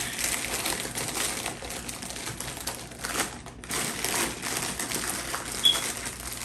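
Crinkly plastic chip bag being handled, with a dense run of small crackles and clicks and a brief high squeak near the end.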